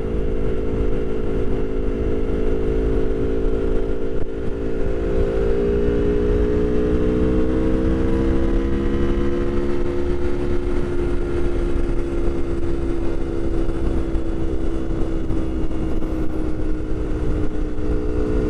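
Aprilia Tuono V4 1100 Factory's V4 engine running steadily at cruise, heard from inside the rider's helmet over a constant rush of wind and road noise. The engine pitch rises gently about six seconds in and eases slowly back down in the second half.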